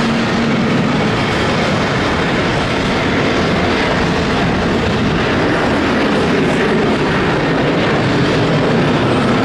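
Boeing 737 BBJ business jet taking off, its twin jet engines running at take-off thrust in a loud, steady roar.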